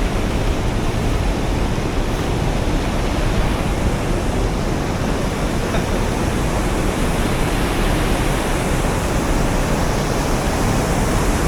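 Steady, loud rush of swollen floodwater pouring over a drop where the river's level changes from high to low, ferocious and continuous.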